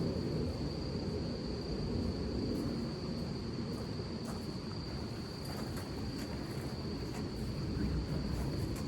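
A steady, unbroken high-pitched insect trill, like crickets, over a low rumble of storm wind and rain, with scattered light taps from about two and a half seconds in.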